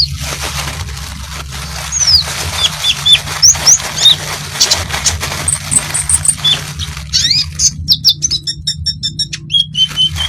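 Flowerpecker (konin) singing in rapid bursts of thin, high chirps and short downward-sweeping notes. Near the end comes a fast rattling string of notes. A steady low hum runs underneath.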